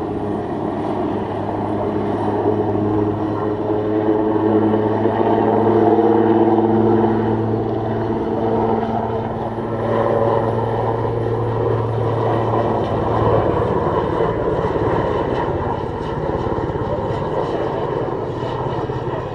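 Twin-engine Airbus H215 Super Puma helicopter in flight, a steady rotor and turbine drone with a low hum that fades about two-thirds of the way through.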